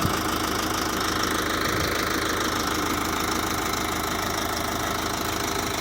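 Sonalika DI 55 Rx tractor's 4087 cc direct-injection diesel engine running steadily at a constant speed, with an even low pulse of firing.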